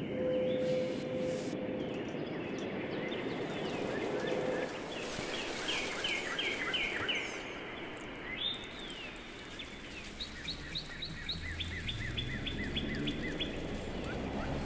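Birdsong: several runs of quick, evenly repeated chirps over steady background noise, with a steady low tone in the first couple of seconds.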